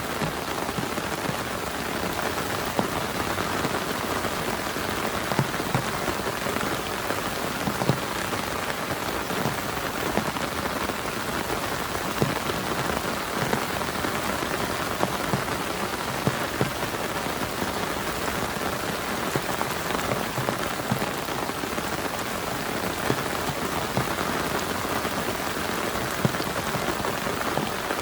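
Heavy rain falling steadily on a camp tarp, with frequent sharper individual drop hits standing out from the even hiss.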